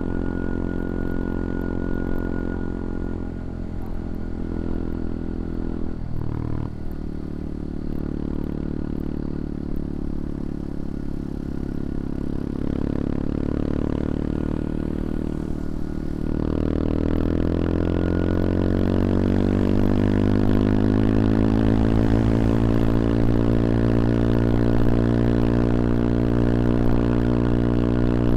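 CFMoto Papio XO-1 small single-cylinder motorcycle engine running under way, briefly easing off about six seconds in. In the second half it accelerates, its pitch rising over several seconds, then holds a higher, louder steady note.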